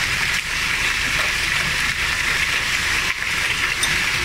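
Heavy rain mixed with small hail pouring down in a steady hiss.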